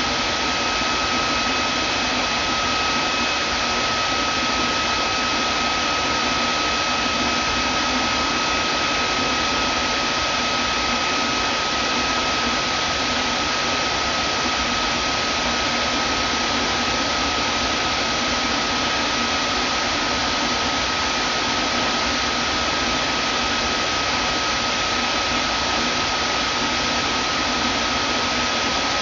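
Vacuum cleaner running steadily, a constant rushing hiss with a steady motor whine.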